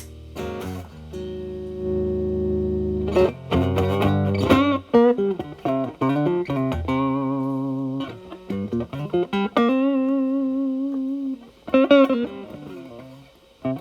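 Telecaster electric guitar through an Xotic BB Plus overdrive pedal on channel A with the gain at zero, into a Marshall Valvestate amp's clean channel. It plays a held chord, then bluesy single-note lines with finger vibrato, and pauses briefly near the end.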